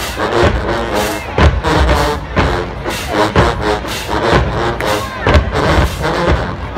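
College marching band playing, with brass chords over heavy bass-drum hits, and a crowd around it.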